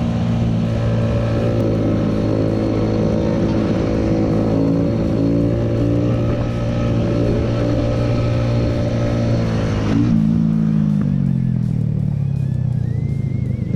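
Vehicle engine running at a steady speed, its pitch falling from about ten seconds in as it slows down.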